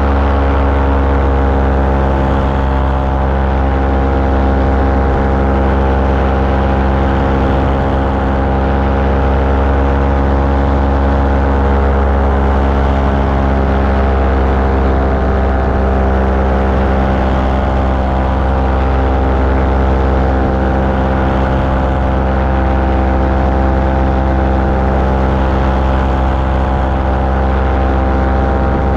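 Engine of a small recreational aircraft running steadily in flight, holding a near-constant pitch with only slight drifts in speed.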